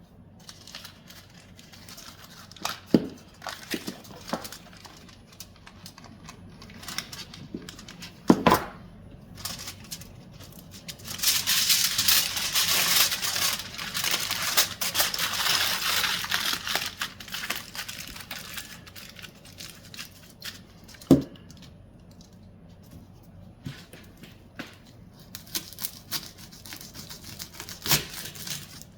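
Hands handling cooking materials: a few sharp knocks, then several seconds of loud crinkling and tearing of wrapping material, then more scattered knocks.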